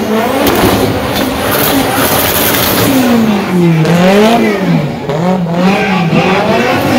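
Car engine revving hard, its pitch rising and falling several times in quick swings, with tyre noise.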